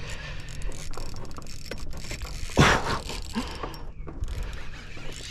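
Fishing reel being cranked, winding line in on a hooked fish, with one short, loud noise about two and a half seconds in.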